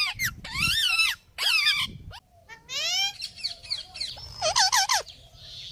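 Birds calling in a string of clear, pitched calls that arch or rise in pitch, with a quick run of short calls near the end.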